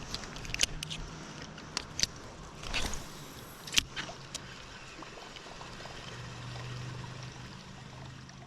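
Water trickling and splashing around a kayak on a river, with a few sharp clicks and knocks in the first four seconds. A faint low hum comes in during the second half.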